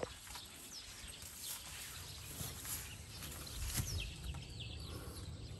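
Small birds chirping: scattered short, high chirps that slide downward in pitch, several in quick succession about four seconds in, over a low outdoor rumble.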